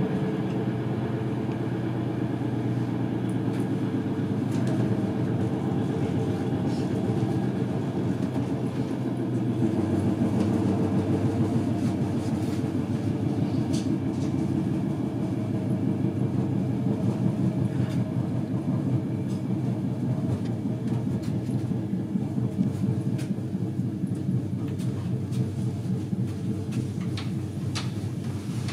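Moving passenger train heard from inside the carriage: a steady rumble of wheels on track, with a few sharp clicks, more of them near the end.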